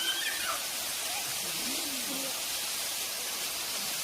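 Steady rushing hiss of a waterfall, with faint far-off voices in the first couple of seconds.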